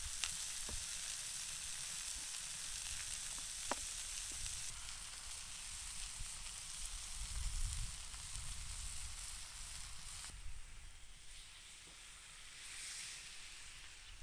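Food sizzling as it fries, a dense hiss with a few sharp pops or clicks over a low rumble. The sizzle is strongest for the first few seconds, then eases and drops lower after about ten seconds.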